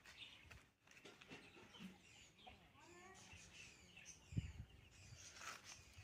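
Near silence with faint bird chirps and calls, including one longer gliding call near the middle, and a soft thump a little past four seconds.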